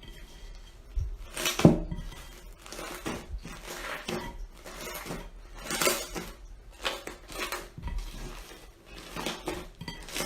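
Slime being squeezed and poked by hand, giving an irregular run of crackles and clicks, the loudest about a second and a half in.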